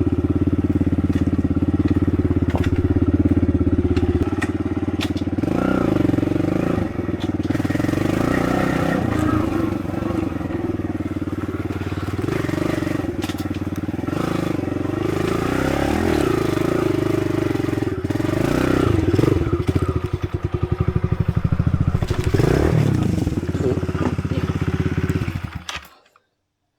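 Kawasaki KLX110 dirt bike's small single-cylinder four-stroke engine being ridden, revving up and down. Around twenty seconds in it drops to a slow, lumpy putter, then revs again before the sound cuts off abruptly near the end.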